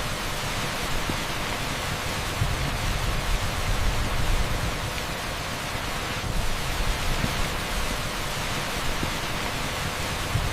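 Heavy rain pouring steadily on an asphalt street: a dense, even hiss with a churning low rumble underneath.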